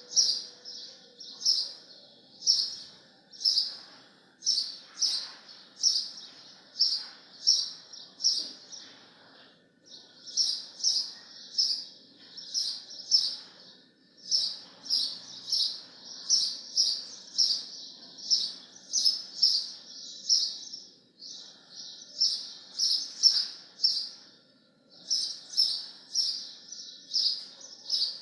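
A bird calling a short, high chirp over and over, about twice a second, in long runs broken by brief pauses.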